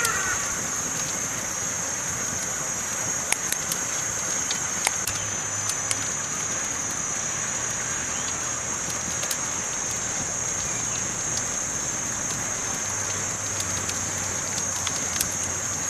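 Campfire crackling: scattered sharp pops and snaps over a steady hiss, with a steady high-pitched band above it.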